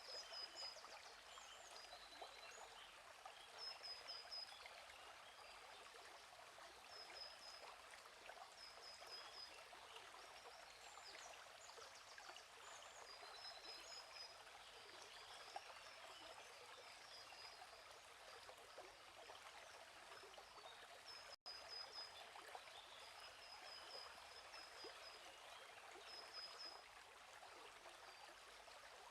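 Quiet, steady flow of a small stream, with small birds giving short, high chirps every second or two. The whole sound drops out for an instant about three-quarters of the way through.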